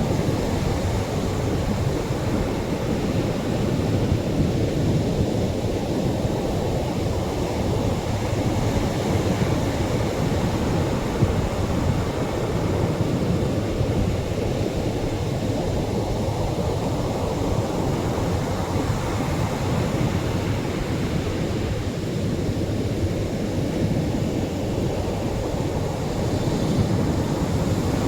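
Atlantic surf washing onto a beach: a steady, low, rumbling wash that slowly swells and eases.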